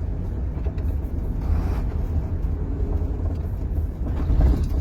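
HOWO truck's diesel engine running, heard from inside the cab, during a downshift from tenth to ninth gear. A brief hiss comes about a second and a half in, and the engine swells louder near the end.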